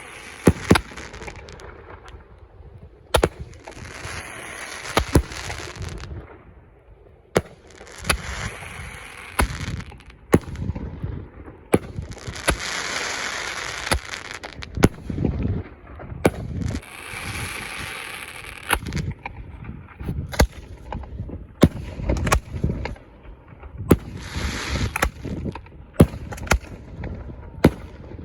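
Fireworks going off: an irregular string of sharp bangs and pops, with several one-to-two-second stretches of hissing and crackling between them.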